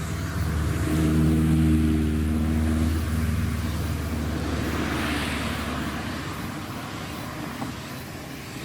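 A car engine running with a steady low note, loudest a second or two in, then fading away as the car drives off.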